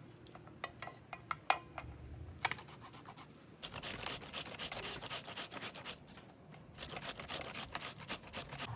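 Quick, rapid scraping strokes in three bursts, after a few light clicks.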